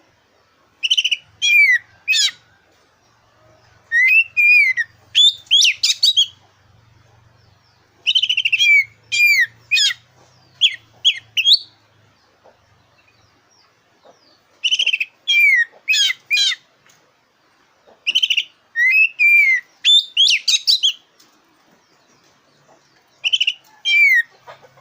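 Oriental magpie-robin of the black-chested kacer dada hitam form singing loud phrases of quick whistles and sweeping notes. Each phrase lasts a second or two, with short pauses between them.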